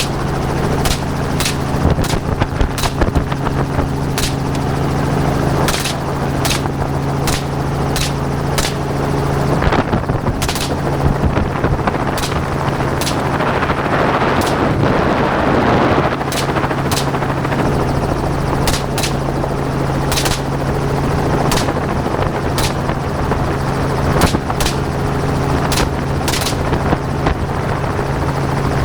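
Helicopter engine and rotor running steadily while gunners fire a long string of gunshots from the aircraft at hogs, about one to two shots a second with a brief pause about halfway through.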